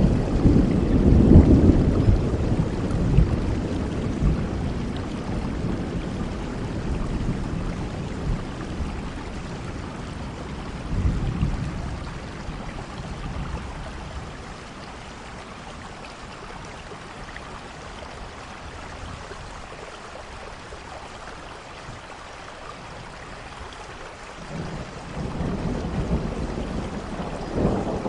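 Steady rain hissing, with thunder rumbling: a roll fading over the first few seconds, a short one about eleven seconds in, and another building near the end.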